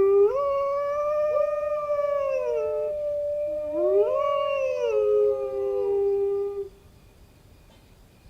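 Long canine howls from at least two animals overlapping. Each howl slides up at the start, holds, then drops at the end. A second howl rises in about four seconds in, and the howling stops about six and a half seconds in.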